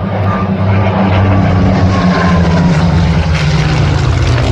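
Piston-engined propeller warbird flying past, its engine note loud and steady, then dropping in pitch as it goes by.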